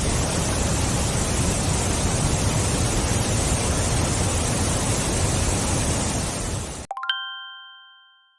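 Steady rushing of a waterfall's water, cut off abruptly about seven seconds in. A single bell-like chime follows and fades away.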